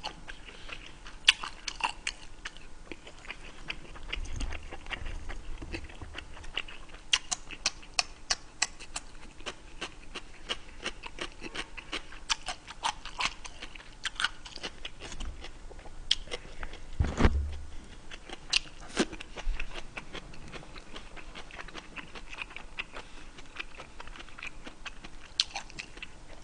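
Close-miked chewing and crunching of raw shredded cabbage: many small crisp crunches and mouth clicks, with a dull thump about 17 seconds in.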